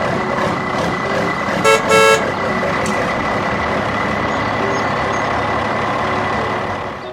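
Truck running steadily as it drives off, with two short horn toots about two seconds in.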